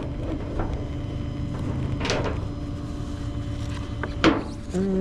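Steady low truck engine rumble under a few clanks and scrapes as a tow strap or chain pinched under a bumper is tugged at. A scrape comes about two seconds in and a sharp knock a little after four seconds.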